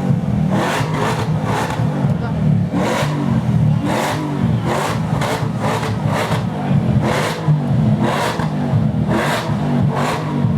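A supercar's engine running steadily at a low pitch, with voices over it.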